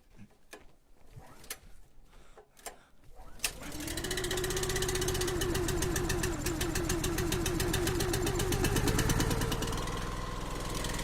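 A log splitter's small gasoline engine starts about three and a half seconds in and settles at once into a steady run, warming up. Faint clicks and taps come before it.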